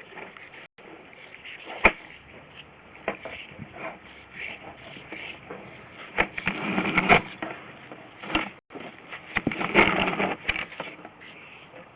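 Sewer inspection camera being pulled back through the lateral: irregular clicks, knocks and scraping from the push cable and camera head, with louder rattling clusters about six and ten seconds in.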